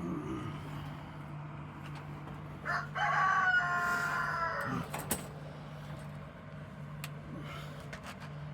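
A rooster crowing once, a single call of about two seconds that holds its pitch and then drops away, over a steady low hum.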